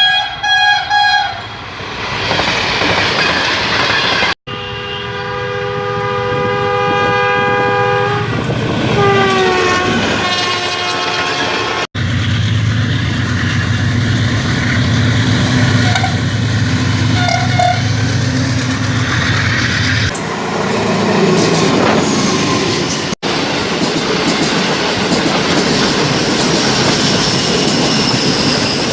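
A ZCU-20 diesel locomotive's multi-tone horn sounds a short blast that ends about a second in, then a long blast from about four seconds in whose pitch slides down as the locomotive passes. The diesel engine's heavy rumble follows, and then the passenger coaches go by with wheel and rail clatter.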